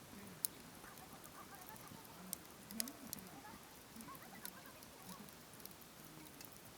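Wood fire crackling: sparse, sharp pops and snaps of burning wood at irregular intervals.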